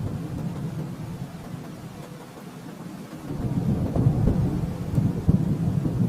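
Thunder rolling in a continuous low rumble; it eases for a moment, then builds again about three seconds in.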